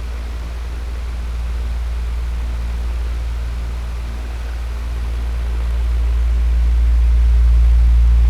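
Electric fan running steadily: a low hum with the airy whoosh of the blades, swelling gently louder toward the end.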